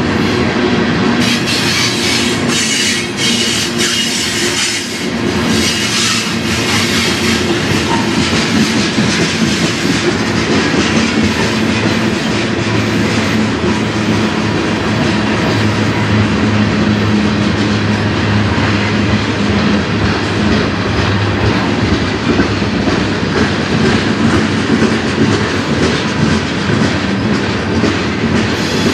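Freight train tank cars rolling past, a steady rumble of wheels on rail with clickety-clack over the rail joints. A stretch of harsh, high-pitched noise from the wheels comes between about one and seven seconds in.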